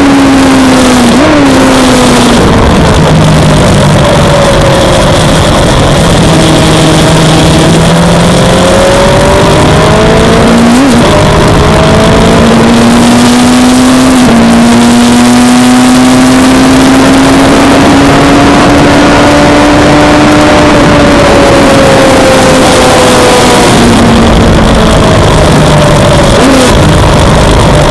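Suzuki GSX-R600 inline-four race bike heard from onboard, pulling through the rev range with long slow rises in engine pitch. There are quick sharp throttle blips on downshifts about a second in, about halfway through, and near the end. Heavy wind rush on the microphone sits under the engine.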